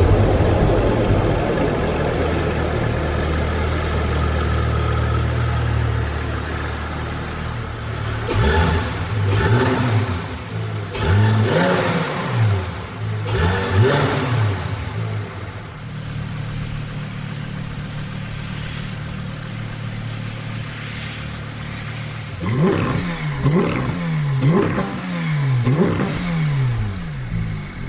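Car engine running steadily, then revved up and down in a string of quick blips, a steady stretch, and a second string of blips near the end.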